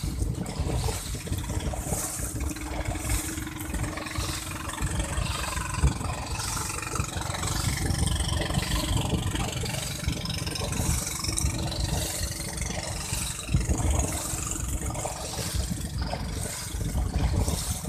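Wind buffeting the microphone over water splashing from dragon boat paddle strokes, with a faint steady hum underneath.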